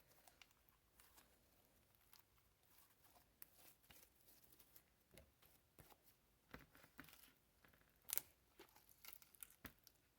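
Faint sticky clicks and crackles of slime being kneaded and pulled apart by hand, with one louder snap about eight seconds in.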